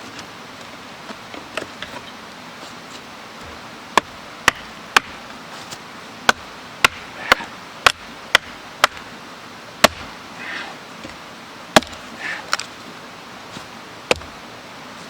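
Wood being chopped with a blade: about a dozen sharp knocks, a run at roughly two a second, then a few more spaced out, with soft rustling between strikes.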